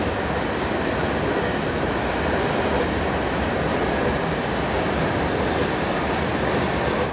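Freight train of tank cars rolling through a curve behind diesel locomotives: a steady rumble of wheels on rail, with a thin, high wheel squeal joining about halfway through.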